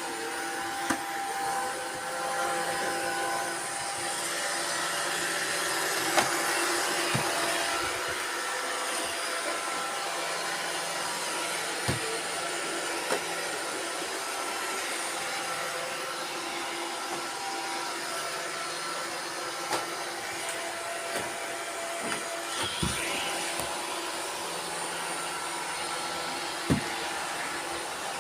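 Robot vacuum cleaners running together: a steady whirring hum carrying several motor whines, with occasional sharp clicks and knocks.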